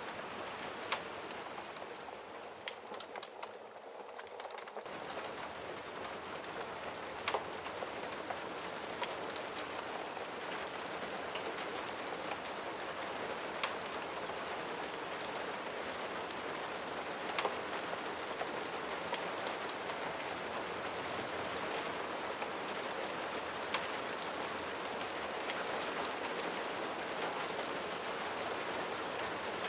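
Steady rain falling on a surface, an even hiss with scattered sharper drops ticking. The sound thins briefly about three to five seconds in.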